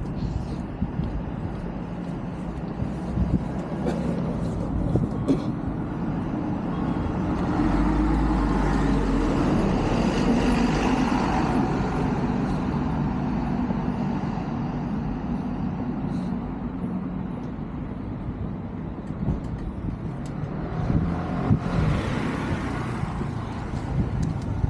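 Traffic on a residential street: a car passing, its engine and tyre noise swelling to a peak about ten seconds in and then fading, with a second vehicle passing near the end. Light footsteps tick in the first few seconds.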